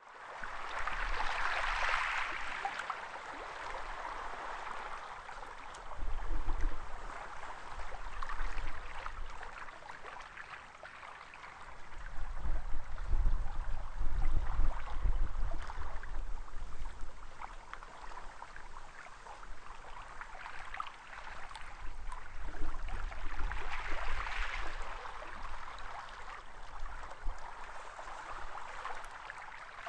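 Sea waves washing up onto a sandy beach, a steady wash that swells and falls every few seconds as each wave comes in and draws back.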